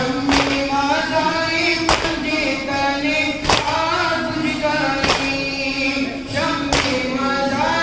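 A group of mourners chanting a noha together in long, held notes, with a heavy chest-beating (matam) thump about every second and a half in time with the chant.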